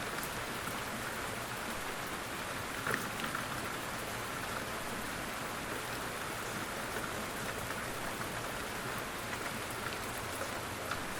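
Steady rain falling on a surface, an even patter with scattered individual drops ticking through it, one slightly louder cluster of drops about three seconds in.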